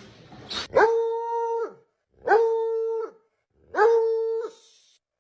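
A dog howling three times, each howl about a second long, held at one steady pitch and dropping off at the end, with short gaps between them.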